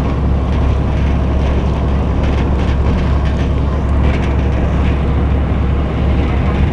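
Commuter train running, heard from inside a passenger coach: a steady low rumble with scattered clicks of the wheels over the track. The deep rumble eases near the end.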